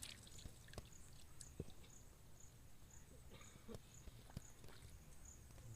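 Near silence: faint outdoor ambience, with a faint high chirp repeating about twice a second and scattered small clicks.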